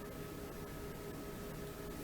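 Steady low hiss with a few faint, steady hum tones: background room tone with no distinct event.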